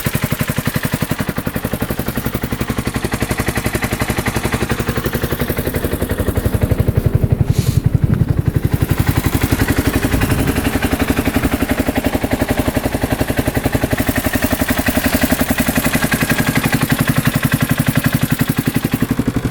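2015 Polaris Ranger 570's single-cylinder four-stroke engine idling steadily as it warms up after being restarted, its exhaust pulses fast and even, a little louder for a few seconds around the middle. The freshly rebuilt engine sounds healthy and runs without stumbling.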